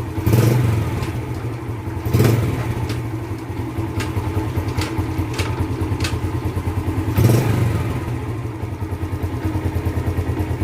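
2008 Yamaha Jupiter Z's single-cylinder four-stroke engine running at idle with an even pulsing beat. It swells briefly three times: near the start, about two seconds in, and about seven seconds in. A few sharp ticks come in the middle.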